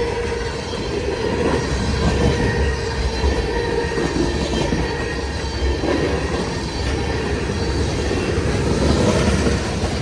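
Freight train cars rolling past with a steady low rumble, and the steel wheels squealing against the rail in a thin steady tone.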